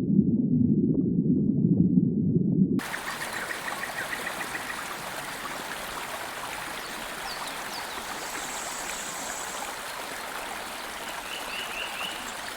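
A loud, muffled low sound for the first three seconds, then a steady rush of flowing water, as from a ride's artificial river and waterfalls, with a few faint high chirps over it.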